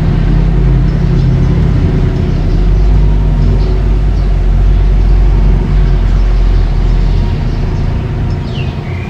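Mini bulldozer's diesel engine running steadily under work, with a deep, even drone that eases off near the end.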